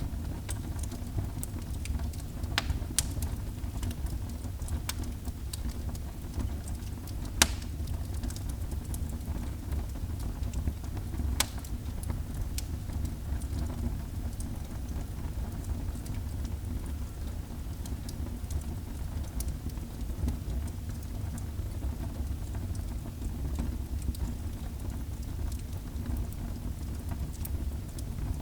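Wood fire burning in a fireplace: a steady low rumble with scattered crackles and sharp pops, the loudest about seven seconds in.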